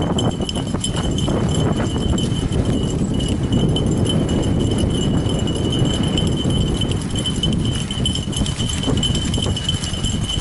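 Fat bike rolling over a rough woodland trail behind pulling dogs: a steady rumble of the fat tyres with many rattles and clicks, and a faint steady high tone throughout.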